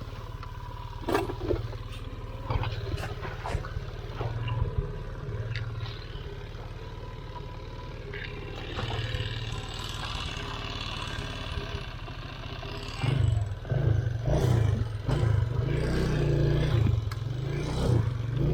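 Off-road motorcycle engine running steadily, with knocks and clatter in the first few seconds. From about thirteen seconds in it revs up in uneven surges.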